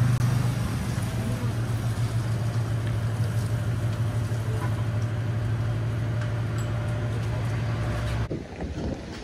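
An engine running steadily, with a low, even hum under a broad rushing noise. About eight seconds in it cuts abruptly to a quieter, uneven sound.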